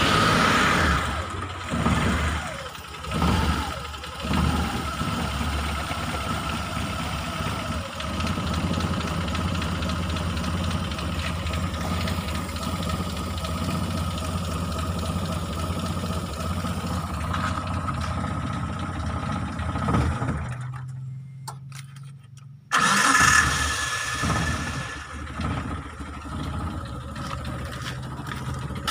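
Mitsubishi T120SS fuel-injected engine running steadily. About twenty seconds in it goes quiet, and about two seconds later it starts up again with a sudden loud burst before settling back into a steady run. The engine is one that is hard to start and stumbles.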